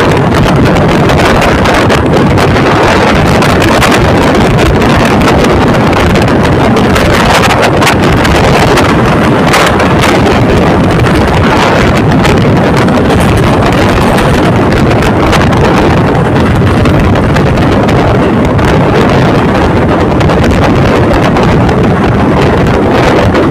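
Loud, steady rush of wind buffeting the microphone together with the running noise of a moving passenger train's coaches.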